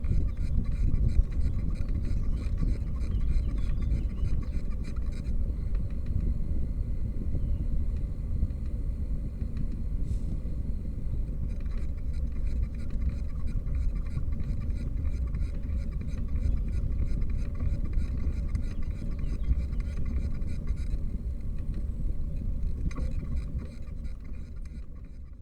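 Steady wind rumble on the microphone with road noise from a moving bicycle, with faint rapid ticking above it.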